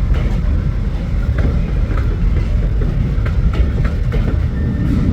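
Diesel-hauled train rolling by: a loud, low rumble with irregular clacks of the wheels over rail joints.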